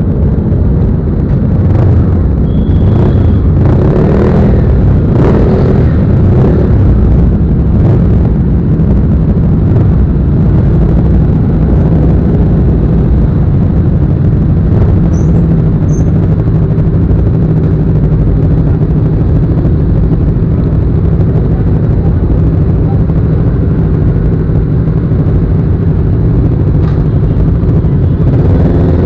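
Motorcycle engine running at a steady speed, loud and close, with a few knocks in the first several seconds.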